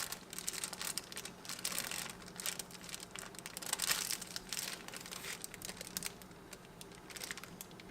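Wrapping crinkling and rustling in quick, irregular crackles as it is handled, over a faint steady hum.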